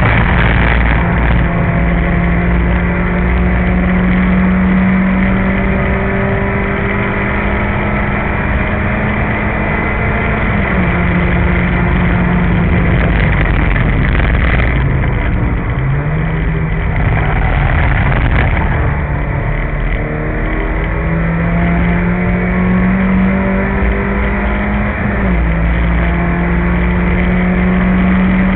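Peugeot 205 GTI's 1.6-litre four-cylinder engine heard from inside the race car's cabin under hard acceleration. Its pitch climbs slowly, drops with an upshift about a third of the way in, dips when the driver lifts around halfway, builds again, and drops with another upshift near the end.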